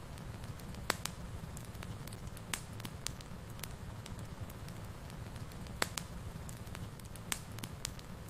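Wood fire burning in a fireplace: a steady low rumble of flames with irregular sharp crackles and pops, the loudest about a second in, near six seconds and again a little after seven.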